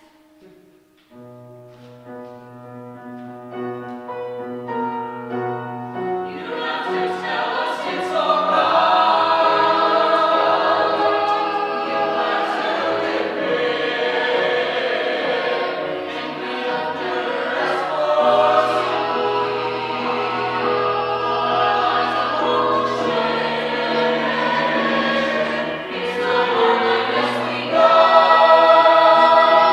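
A small ensemble of voices singing together in harmony, a musical-theatre number. It starts softly on held notes and fills out with more voices a few seconds in, growing louder near the end.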